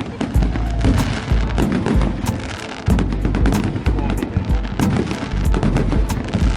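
Fireworks salute going off: a rapid string of sharp bangs and crackles over deep booms, with no break.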